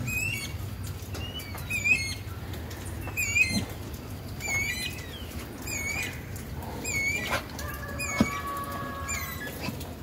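A bird repeating a short, high, warbling call about once every second and a quarter, eight times over.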